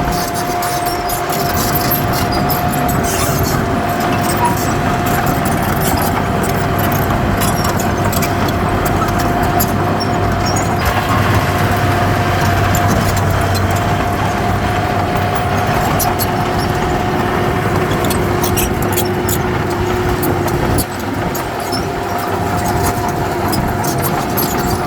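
Heavy diesel earthmoving machinery running steadily under load, with a steady whine on top of the engine noise. The sound drops a little for a moment near the end.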